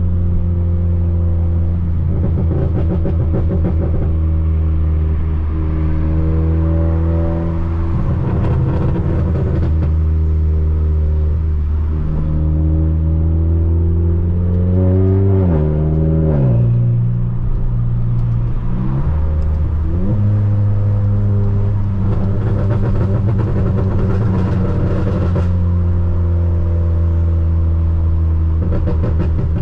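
Volkswagen Polo GTS's turbocharged four-cylinder engine through a sports exhaust, running at mostly steady revs. About halfway through the pitch falls away as the revs drop and climbs back a few seconds later, and rough, crackly stretches come and go over the steady note.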